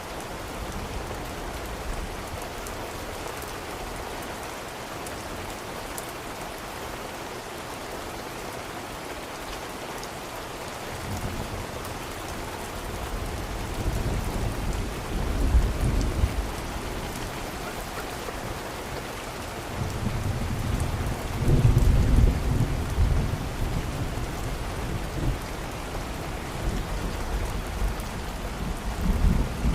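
Steady rain falling, with deep rolling thunder rumbling in twice, about a third of the way in and again past the middle, and a third rumble starting near the end.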